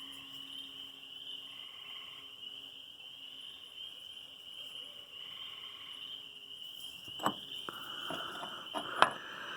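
Steady, high-pitched chorus of insects. Near the end come a few sharp knocks, the loudest one a little before the end.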